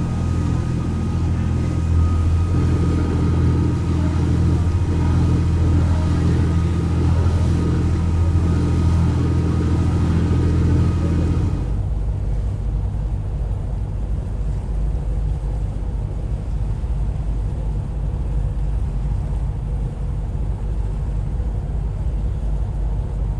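A steady low engine hum with a few fixed tones above it, which cuts off abruptly about twelve seconds in and gives way to a rough, low rumble.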